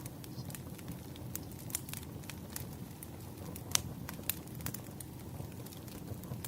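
Firewood burning, crackling: irregular small pops and snaps over a low steady rumble, with one louder pop about halfway through.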